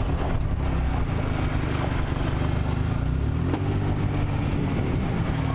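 A small vehicle engine running steadily, its pitch shifting a little about halfway through as it changes speed.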